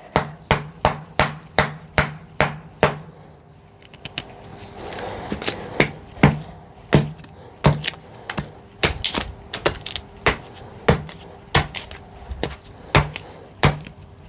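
A carving axe striking a wooden spoon blank, sharp chopping blows at about two a second, a short pause with a soft scraping, then more blows at an uneven pace.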